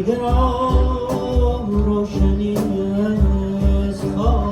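Live world-music ensemble playing a Persian-style piece: a sustained melody line that slides between notes over a steady beat of low hand-drum strokes.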